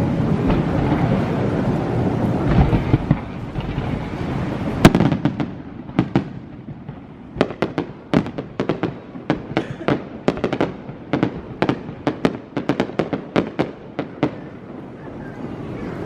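Fireworks display: a dense run of rumbling booms, a loud bang about five seconds in, then a rapid string of sharp crackling pops that eases off near the end.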